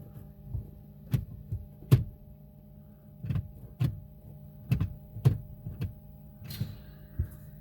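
About a dozen sharp clicks and knocks at irregular intervals over a steady low hum.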